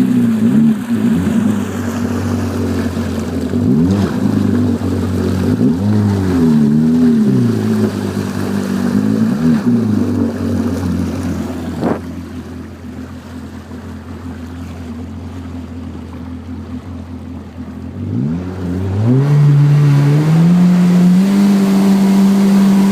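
Yamaha VXR WaveRunner engine exhausting through a RIVA rear exhaust, revved in several short blips, then idling steadily, then revved up about three quarters of the way in and held at a higher speed.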